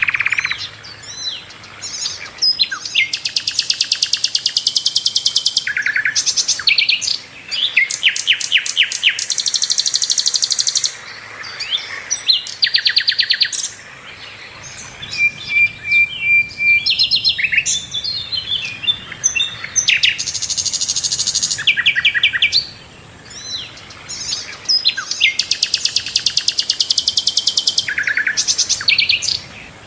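Sikatan londo flycatcher singing continuously: fast, high chattering trills and rapidly repeated notes in bursts of a few seconds, with short pauses between them.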